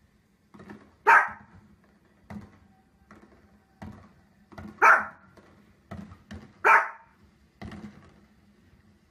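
A dog barking three times in loud single barks, with fainter short thuds in between, which fit the fireworks bangs of the TV broadcast.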